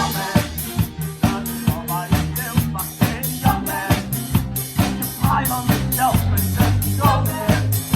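Drum kit playing a steady beat of kick drum and snare with rimshots, over a live band's sustained low notes and other pitched instruments.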